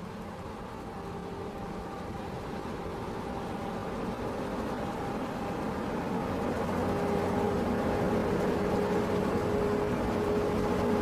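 Engine of a heavy road-construction machine running steadily, growing louder throughout, with a low hum and a held whine that comes in about two-thirds of the way through.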